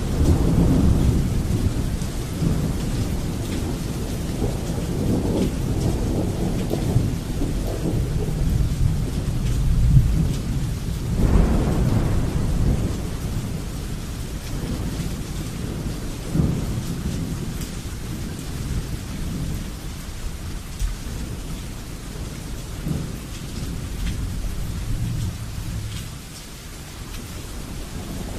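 Thunderstorm: steady rain with rolling rumbles of thunder, swelling loudest about ten to twelve seconds in.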